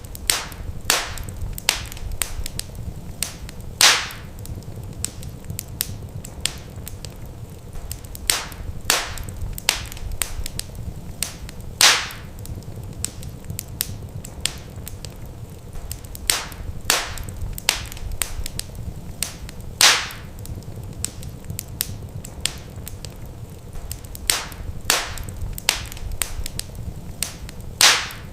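Wood fire crackling in a fireplace: irregular sharp pops and snaps over a low steady rumble, with a louder pop about every eight seconds.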